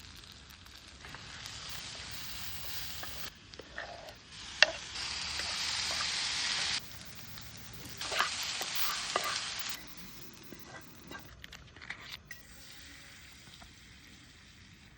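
Food frying and sizzling in a pan, in short stretches that cut in and out abruptly, with scattered clicks and scrapes of a utensil and one sharp click about four and a half seconds in.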